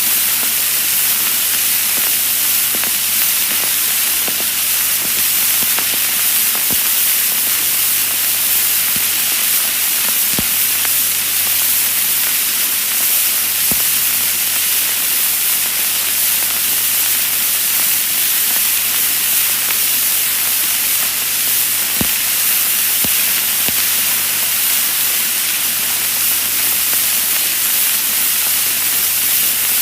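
Vinyl record surface noise: a steady hiss over a low hum, with scattered crackles and pops, a few louder pops standing out here and there.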